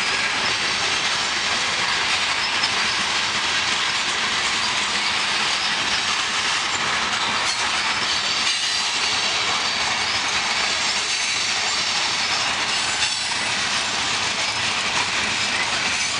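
Freight cars of a long manifest train rolling past, a steady rush of steel wheels on the rails with a few faint clacks.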